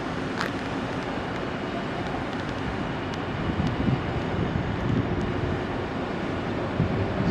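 Nankai electric commuter train at a station platform: a steady mechanical rumble and hiss with a few light clicks.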